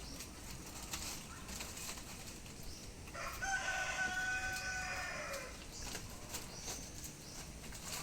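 A rooster crowing once, a single long call of about two and a half seconds that starts about three seconds in and falls in pitch at the end.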